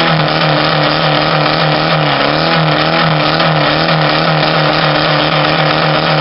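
A car engine revved hard through its exhaust and held at steady high revs, the pitch wavering slightly, as in an exhaust loudness contest.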